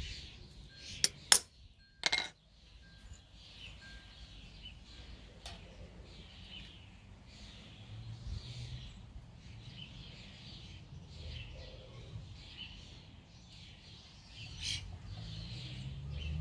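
A few sharp metal clinks about a second in, as a centre punch is handled on a steel bar, then birds chirping over and over in the background with a low rumble underneath.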